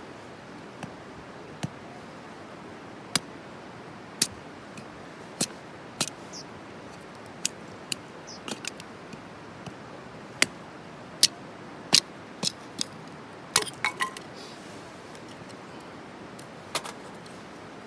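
Wood fire crackling: irregular sharp pops and snaps, some in quick little clusters, over a steady hiss.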